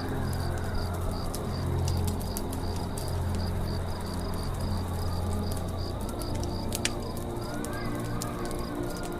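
Campfire crackling with scattered sharp pops, over a forest ambience of insects chirping in a steady pulse about three times a second and birds calling low. One louder pop comes about seven seconds in.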